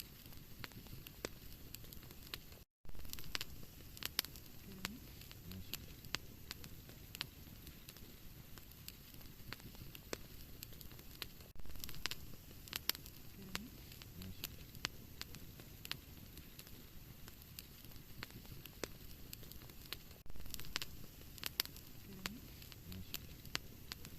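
Wood fire burning in a fireplace, crackling and popping steadily over a low rushing of flame. The sound cuts out for an instant about three seconds in, and the same run of pops comes back every nine seconds or so.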